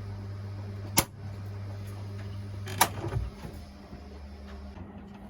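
Washing machine with a steady low hum, two sharp clicks about two seconds apart and a short clunk just after the second, after which the hum settles lower.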